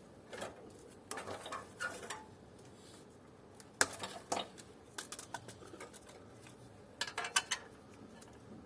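Metal parts and hand tools clinking and rattling in short bursts while an air conditioner is taken apart for scrap, with one sharper click about four seconds in.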